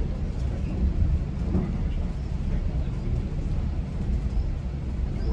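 Inside a GO Transit bilevel passenger coach, the train running on the rails makes a steady low rumble.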